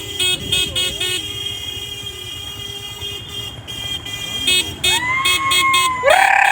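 Vehicle horn honking in quick repeated toots, about four a second, then held steady for a couple of seconds. Near the end a loud call rises in pitch, holds and bends.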